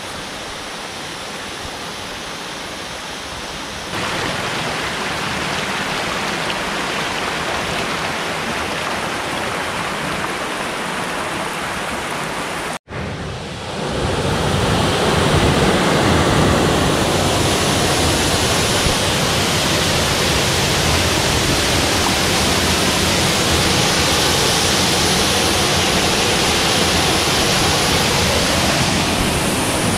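Steady rushing of falling water from a waterfall and stream. It steps louder a few seconds in, cuts out for an instant about thirteen seconds in, and resumes louder.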